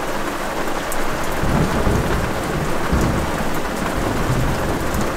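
Heavy rain pelting the roof and windows of a van, heard from inside the vehicle, a dense steady hiss. Thunder rumbles low underneath, swelling about a second and a half in and again around three seconds.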